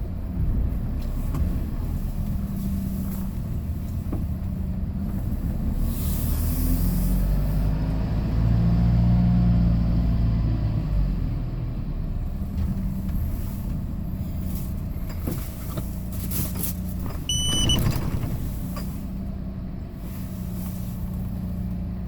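Hyundai Porter II box truck driving, its engine droning low and rising under acceleration about halfway through, then easing off. A short electronic beep sounds near the end.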